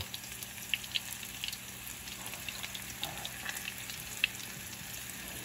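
Cornmeal-battered okra frying in hot oil in a skillet: a steady sizzle with scattered sharp crackles and pops, one louder pop a little past four seconds in, as more pieces are dropped into the oil a few at a time.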